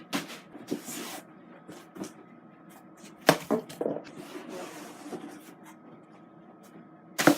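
Handling noise as plastic vacuum parts are lifted out of their packaging: rustling and light clicks, with a sharp knock about three seconds in and a louder one near the end.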